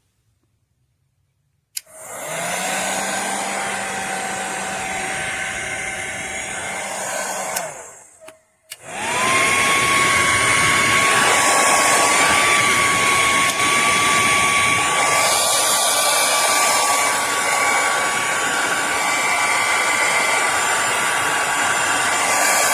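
Revlon infrared ionic hair dryer switched on about two seconds in, running with a steady rush of air and a motor whine. It cuts off briefly about eight seconds in, then comes back on louder with a higher-pitched whine: a faster fan setting.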